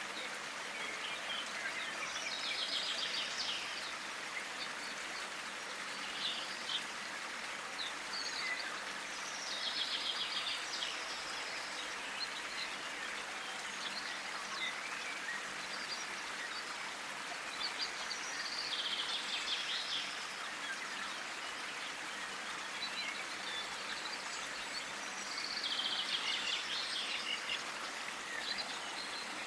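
Songbird singing outdoors: a short trilled phrase repeated about every seven to eight seconds, with softer chirps between, over a steady outdoor hiss.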